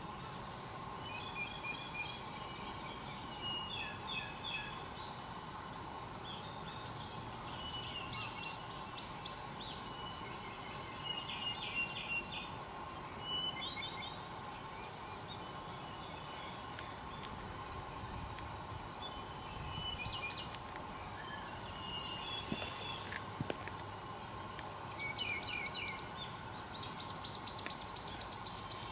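Wild songbirds singing: short phrases of quick, high repeated notes come every second or two with brief pauses between, growing louder and busier near the end. A faint steady hum runs underneath.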